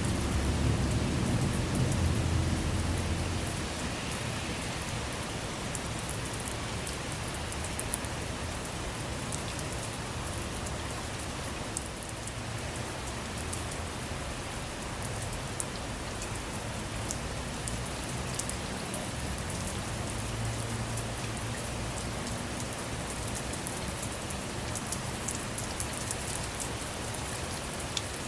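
Steady rain falling on a car, with scattered sharp ticks of single drops striking. A low rumble of thunder sits under it in the first few seconds and comes back more faintly about two-thirds of the way through.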